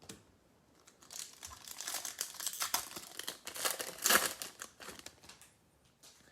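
Foil wrapper of a Bowman baseball card pack being torn open and crinkled, a dense crackling with sharp crisp clicks for about four seconds, dying away near the end.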